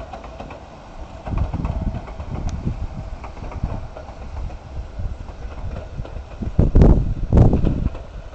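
Low rumble of a Sangi Railway Hokusei Line narrow-gauge train running past, with two loud thumps close together about seven seconds in.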